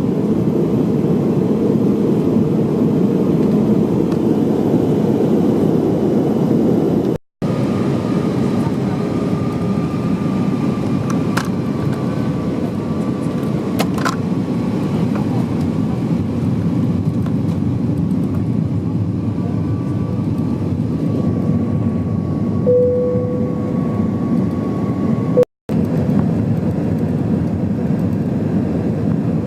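Steady in-flight cabin noise of an Airbus A321-200: the even, deep rush of engines and airflow heard from a seat in the economy cabin, with a couple of faint clicks.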